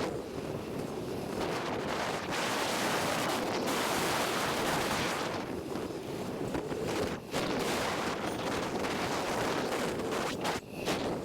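Wind buffeting the microphone of a camera riding along on a moving bicycle: a steady rushing noise that dips briefly a few times.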